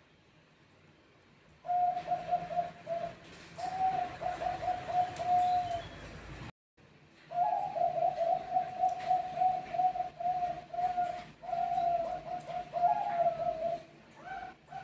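Zebra doves singing: runs of short, quick cooing notes repeated several times a second, starting about two seconds in, breaking off briefly, then a longer run with higher notes joining near the end.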